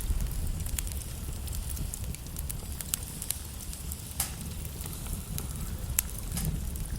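Wood logs burning in a fireplace, crackling with frequent sharp pops over a low, steady rumble of flame. The two loudest pops come about four and six seconds in.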